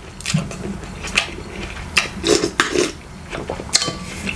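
Close-miked eating sounds: a run of sharp, irregular clicks and clinks of cutlery against dishes, mixed with the mouth sounds of eating.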